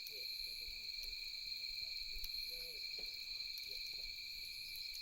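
Steady night chorus of insects, holding two unbroken high-pitched tones, with a few faint crackles from a wood campfire.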